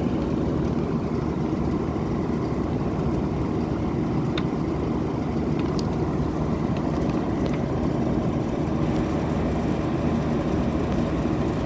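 Air conditioner running with a steady low hum, its controls unresponsive. A few faint clicks come in the middle.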